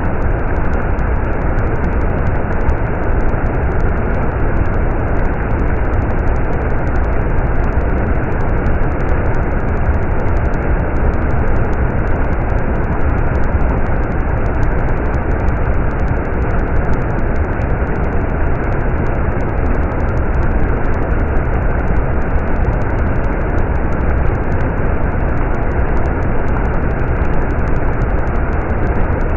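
Stream water rushing and flowing steadily, a dense, even rush heavy in low rumble.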